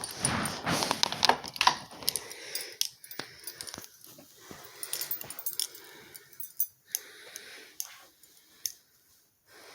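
A person breathing heavily through a face mask, loudest in the first two seconds, followed by scattered light clicks and rustles of handling.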